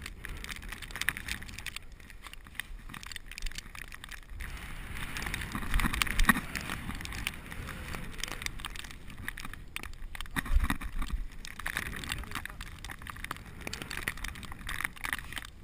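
A bicycle being ridden through snow: a steady low rumble thick with clicks and rattles, with a couple of louder low thumps about six and about ten and a half seconds in.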